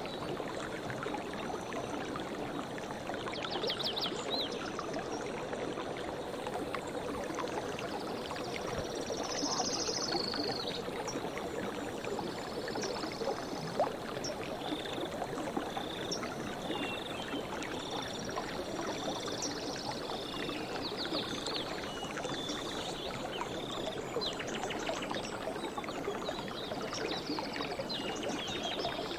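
Stream of water running steadily, with birds chirping high above it; in the middle one bird repeats a short, high note about once a second.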